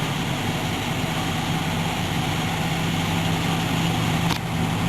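2003 Nissan Frontier pickup's engine idling steadily just after a cold start, with a brief click about four seconds in.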